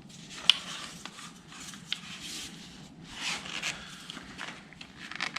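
Handling noise from plastic pressure washer wand parts: light clicks and rustling as the pieces are fitted and moved, with a sharp click about half a second in and another near two seconds.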